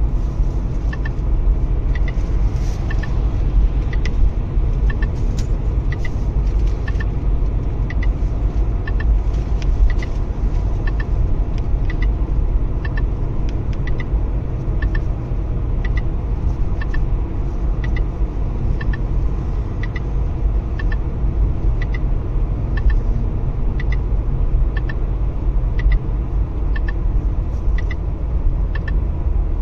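Steady low rumble of a car driving, heard inside the cabin, with a Neoline X-COP 9100c radar detector giving short high beeps about once a second as its sound alert.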